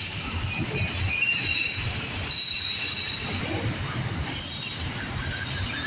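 Loaded autorack freight cars rolling past: a steady low rumble of steel wheels on the rails, with thin high-pitched wheel squeal over it.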